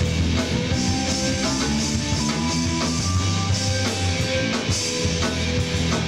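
Live rock band playing an instrumental stretch between chorus lines, electric guitars and drum kit with no singing.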